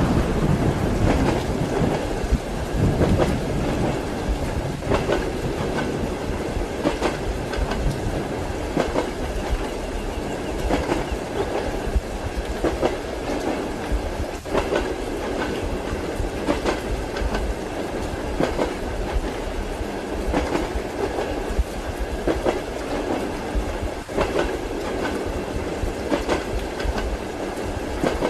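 Passenger train running, its wheels clacking over the rail joints in a steady rhythm about every two seconds over a constant rumble.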